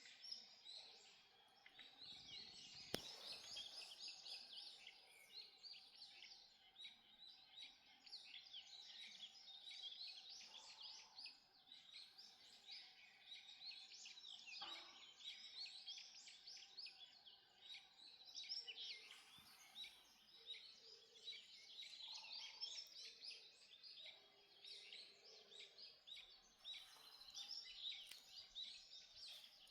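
Dawn chorus of many songbirds singing at once: a dense, overlapping twitter of chirps and trills, faint overall, with a single sharp click about three seconds in.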